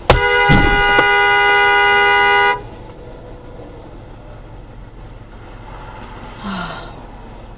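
A sharp bang, then a car horn blaring continuously for about two and a half seconds before cutting off.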